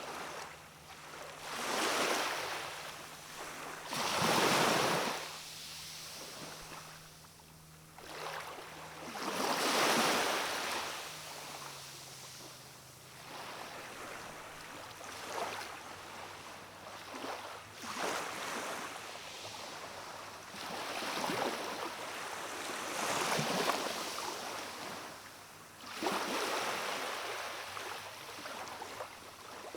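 Calm sea washing onto a rocky shore: small waves wash in one after another every few seconds, each swelling and falling away.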